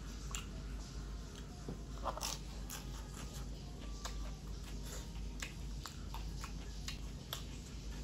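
A person chewing food close to the microphone, with irregular wet clicks and lip smacks, while eating by hand.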